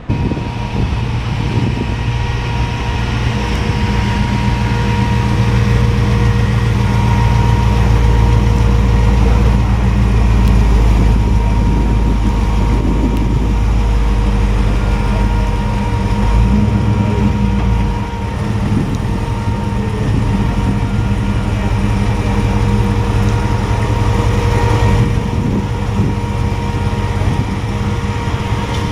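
A car engine running steadily at idle, with a deep even hum and a steady higher tone above it.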